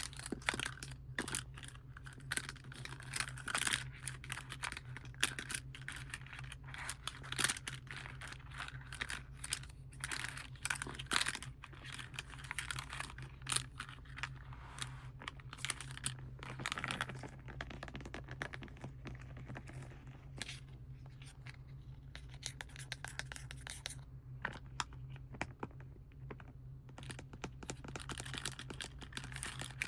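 Plastic and foil crinkled and tapped close to the microphone: a dense run of crackles and quick clicks that thins out for a few seconds near the end, then picks up again, over a low steady hum.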